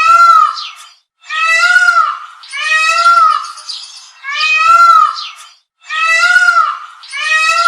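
Peacock calling: a loud series of about six repeated cries, each about a second long and arching up and back down in pitch, with short gaps between them.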